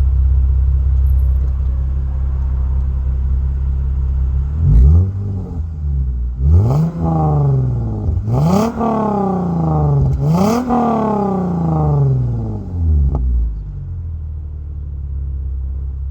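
Lexus IS350's 3.5-litre V6 through a true dual exhaust with the secondary catalytic converters deleted and Vibrant bottle resonators, idling and then revved four times, each rev climbing quickly and falling back slowly before it settles to idle again.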